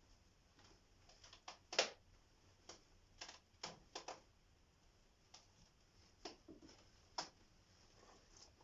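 Scattered light clicks and knocks at irregular intervals, about a dozen, the loudest one about two seconds in.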